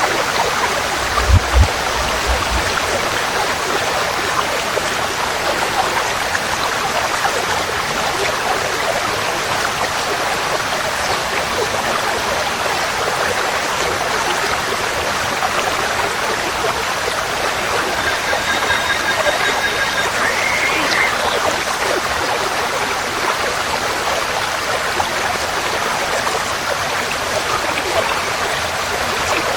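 Forest stream flowing in a steady rush of water. Two short low thumps come just over a second in, and a bird gives a brief call with a rising note about two-thirds of the way through.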